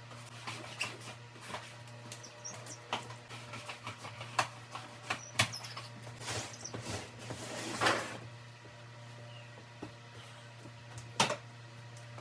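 Pet hair remover roller worked back and forth over fabric upholstery: an irregular run of rasps and small clicks, with a few sharper clicks standing out, over a faint steady low hum.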